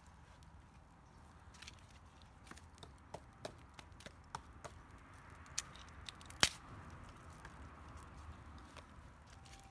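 Dry bamboo cracking and snapping in scattered sharp cracks, with one louder crack about six and a half seconds in.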